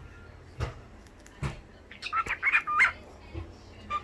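Cockatiel saying its learned phrase once, in a short burst of chirpy, speech-like notes about two seconds in, after a couple of soft clicks.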